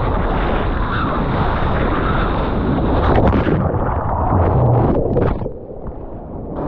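Strong offshore wind buffeting the microphone over the rush of surf, a loud, dense roar that drops away sharply about five seconds in, leaving a few short splashy crackles.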